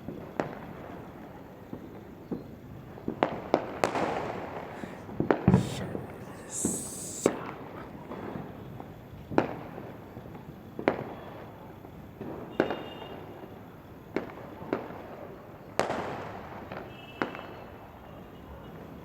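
Celebration fireworks and firecrackers going off, a string of sharp bangs at irregular intervals, roughly one a second, each trailing off in an echo. About seven seconds in there is a brief hissing burst.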